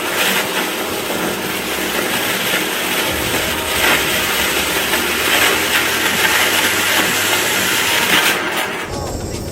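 Loud, steady mechanical noise with a strong hiss, changing abruptly near the end.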